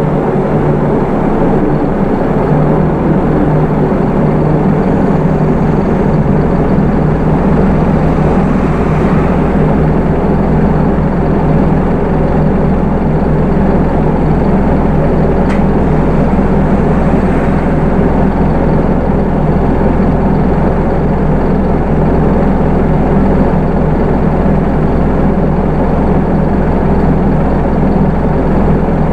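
Hino Rainbow II (SDG-KR290J1) city bus with its Isuzu 4HK1 four-cylinder turbo-diesel engine and automatic transmission, the engine running steadily without change.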